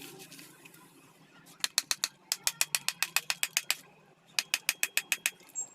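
Rapid ratchet-like clicking, about ten clicks a second, in two runs: one of about two seconds, then, after a short pause, one of about a second.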